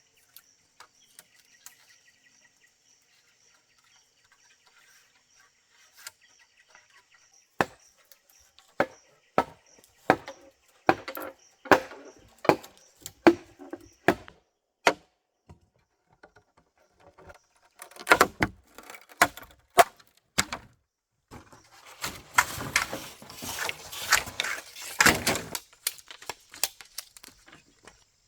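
A series of chopping blows: single sharp knocks about once a second at first, a short flurry about eighteen seconds in, then a fast run of strokes near the end. Insects trill faintly before the chopping starts.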